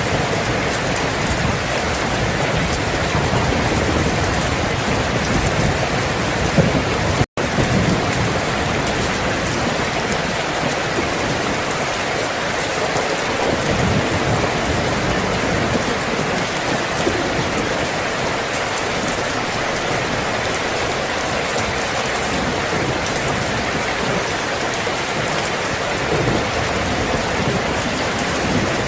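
Steady rain falling, an even hiss, with a low thunder rumble under it in the first seven seconds. The sound drops out for an instant about seven seconds in.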